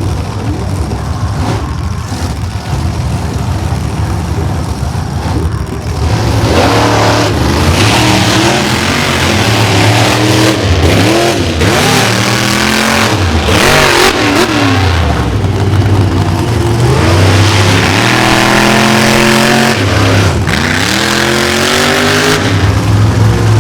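Monster truck engines, loud, running steadily at first, then from about six seconds in revving up and down again and again.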